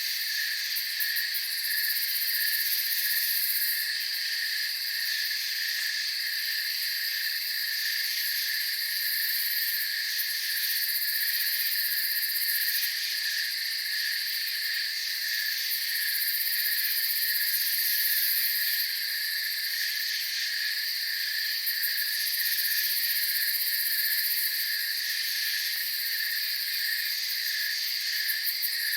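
Night chorus of crickets and other insects: several steady overlapping trills at different pitches, with the highest-pitched layer coming and going every second or two.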